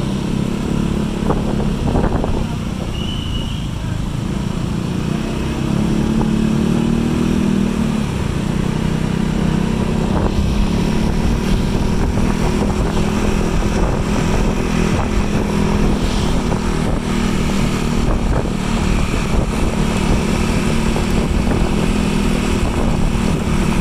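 A motor vehicle engine running steadily, a continuous hum over a low rumble.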